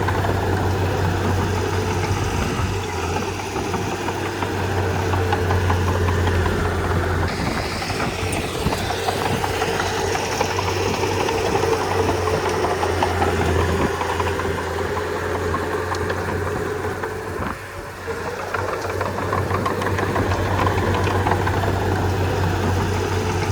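Komatsu D31P crawler bulldozer's diesel engine running steadily as the machine works, easing off briefly about three-quarters of the way through.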